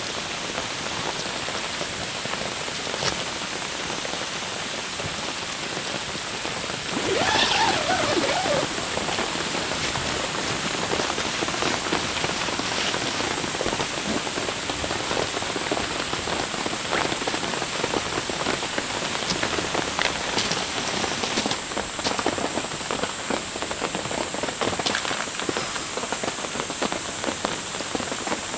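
Steady rain falling, with many individual drops ticking. About seven seconds in there is a brief louder sound with a wavering pitch, and the rain is slightly louder after it.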